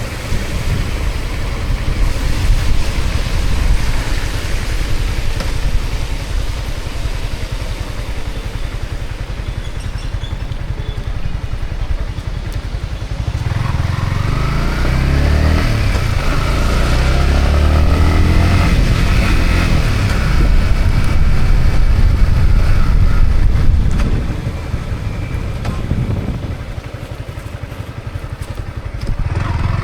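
Yamaha MT-15's single-cylinder engine heard from the rider's seat under wind rush: a low rumble at first, then the revs climb about halfway through and it pulls hard for several seconds before easing off, picking up again near the end.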